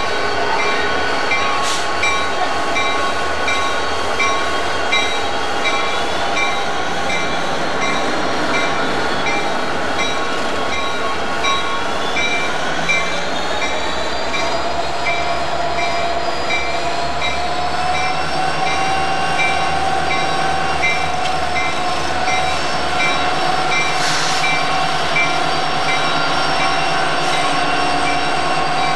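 Freight train running steadily, with several held tones over the rumble and a high ding that repeats throughout. Partway through, the tones rise in pitch and then hold at the higher level.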